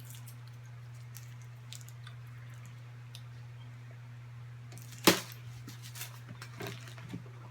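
A steady low electrical hum, with a few faint clicks and one short sharp crackle about five seconds in.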